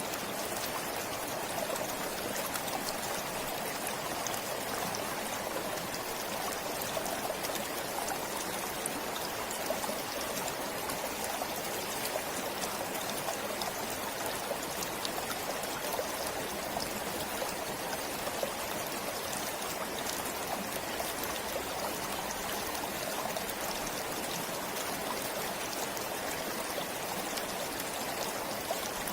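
A forest stream flowing steadily, a continuous babble of running water with a fine trickling sparkle.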